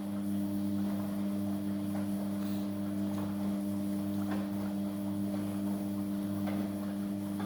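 Amica washing machine running in its main wash: a steady motor hum with a few faint ticks.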